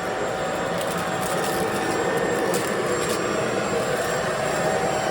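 Bissell Pet Slim 21 V cordless stick vacuum running steadily: a motor whine over the hiss of rushing air, with a few faint clicks in the first few seconds.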